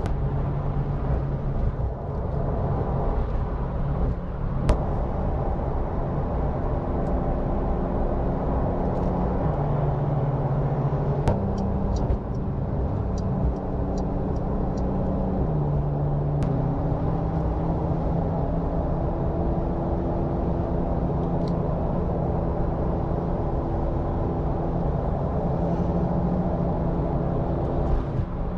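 Porsche 911 (992) flat-six engine heard from inside the cabin while cruising, a steady drone over tyre and road noise. The engine note steps down and back up a few times as the speed changes.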